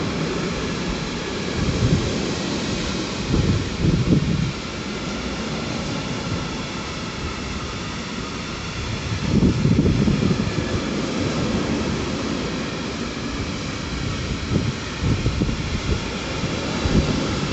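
A train running past on the rails: a steady rumble with rail noise, swelling in low surges a few times.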